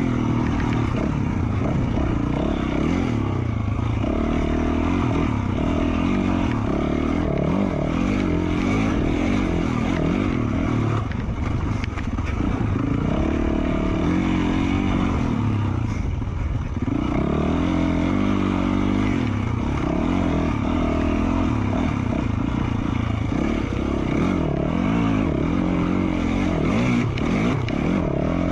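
Single-cylinder four-stroke engine of a 2020 Yamaha YZ450F dirt bike, fitted with an FMF Q4 slip-on exhaust, running under load on a trail ride. Its revs rise and fall throughout as the throttle is worked, with short drops in revs a little before halfway and again just past halfway.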